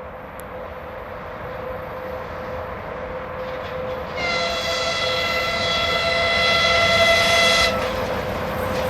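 VL80S electric locomotive with a freight train approaching, its running noise growing steadily louder; about four seconds in the locomotive sounds one steady horn blast lasting about three and a half seconds, which cuts off sharply.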